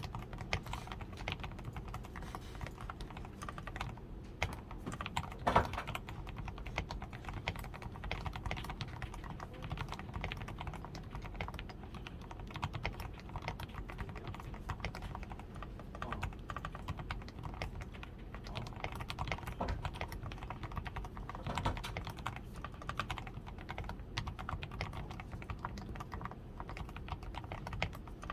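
Steady fast typing on a DAREU A87 Pro mechanical keyboard that has been fully lubed with Krytox 105, tape-modded on the PCB, padded with Poron foam at the switches, fitted with XDA keycaps and given lubed stabilizers. One keystroke about five and a half seconds in is clearly louder than the rest.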